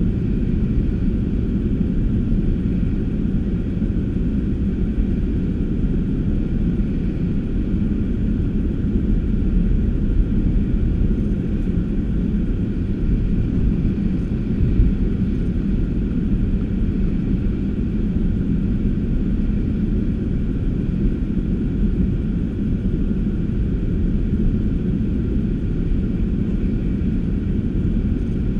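Steady low rumble of a car driving, engine and road noise without a break.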